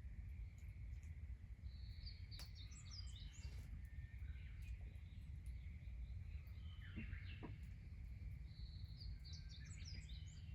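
A small songbird singing the same short, high, chirping phrase twice, about seven seconds apart, with a few other chirps between, over a faint low outdoor rumble.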